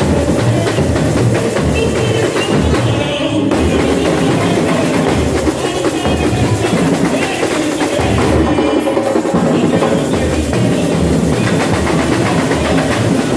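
Samba school bateria (drum section) playing a samba rhythm, deep bass drum beats pulsing under denser higher percussion. The higher percussion drops out briefly twice, a few seconds in and past the middle.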